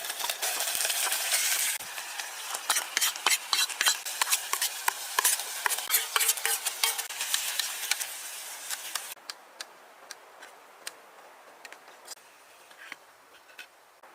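Food sizzling in a pan, then a metal utensil stirring and knocking against the pan with many quick clicks. About nine seconds in it goes quieter, leaving only an occasional tick.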